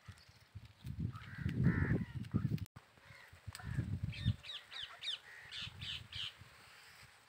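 Birds calling: a harsh call about a second in, then a run of quick, falling chirps in the middle, over low rustling and thumps.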